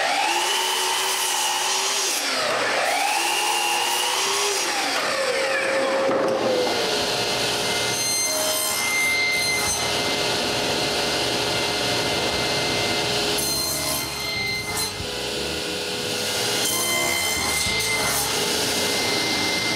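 Power saw cutting cedar plank into pieces. Its pitch dips and recovers twice in the first few seconds, then it runs steadily, with a few short cuts later on.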